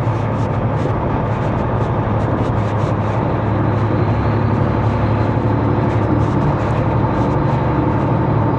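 Semi truck's diesel engine running steadily under way, heard from inside the cab as a constant low drone mixed with road noise.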